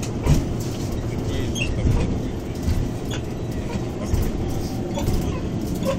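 Cabin sound of a moving BKM-213 trolleybus: a steady low rumble with a few sharp knocks and scattered short squeaks and creaks from the body.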